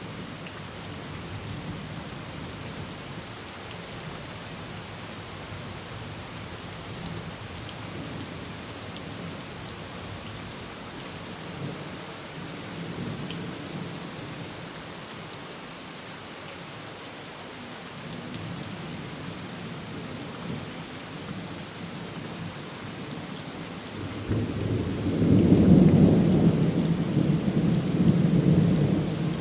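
Heavy rain falling on a tin roof, a steady hiss with scattered drop ticks. About 24 seconds in, a low rumble of thunder swells and rolls on to the end, much louder than the rain.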